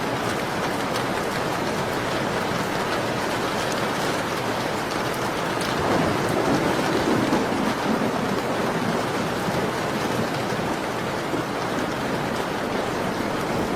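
Steady rain falling on a surface, with scattered faint crackles from a wood fire. The rain swells briefly about six seconds in.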